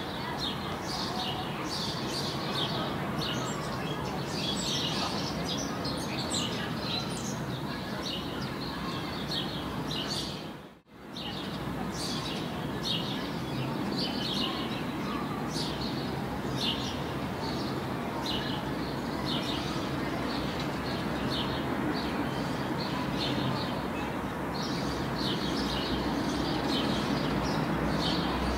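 Songbirds chirping and singing, short high notes repeating over a steady background rumble. The sound drops out briefly about eleven seconds in.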